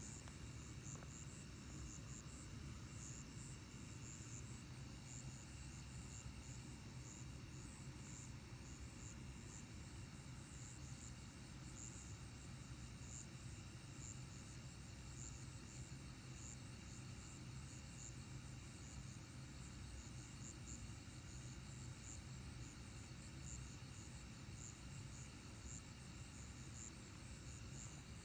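A faint chorus of night insects chirping, with rapid, evenly repeating pulses and steady high trills, over a steady low hum.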